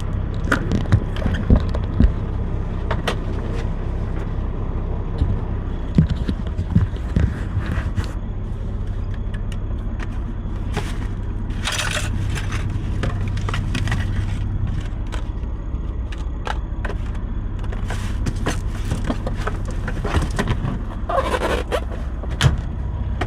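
A new air fryer being unboxed: cardboard scraping and rustling with irregular knocks and clicks as the box is opened and the appliance pulled out. Under it runs a steady low hum, typical of a semi truck's diesel engine idling.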